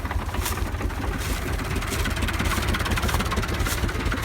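Tractor engine running steadily with a low, even throb.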